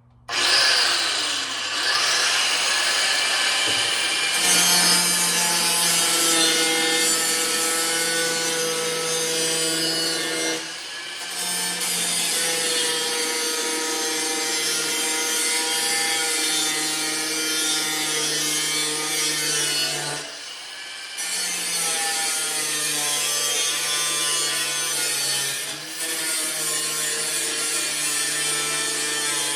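Grinder cutting through a piece of metal, a slow, hard cut: a loud grinding hiss over the motor's steady whine, starting abruptly and dipping briefly three times as the disc eases off.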